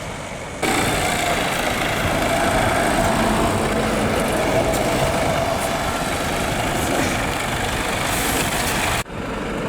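Heavy truck engine running, with a steady noisy hiss over it. The sound cuts in abruptly about half a second in and cuts off abruptly near the end.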